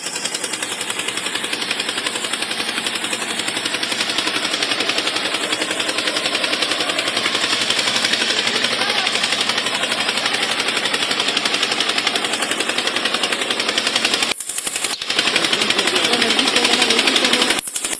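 A small machine rattling rapidly and steadily, breaking off briefly twice near the end.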